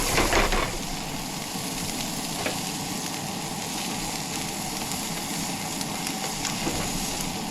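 Fish frying in a hot oiled pan: a steady sizzle, louder for a moment right at the start, with a few faint ticks.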